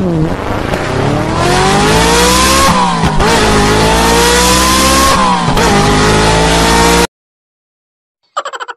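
Sports car engine sound effect accelerating hard through the gears: the engine note climbs, drops at a gear change, climbs again twice, then cuts off suddenly. Near the end a rapid pulsing electronic tone starts.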